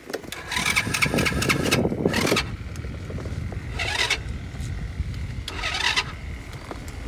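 Four-wheeler's electric starter cranking in three tries, one long and two short, without the engine catching. The kill switch is left on, and the cranking sounds to the owner like the battery might almost be dead.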